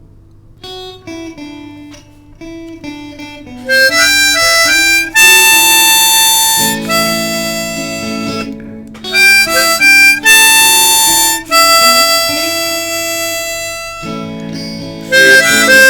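Harmonica solo over guitar in an instrumental break of a blues-style song. A quiet picked guitar line plays for the first few seconds, then the harmonica comes in loud with long held notes, moving to quicker short phrases near the end.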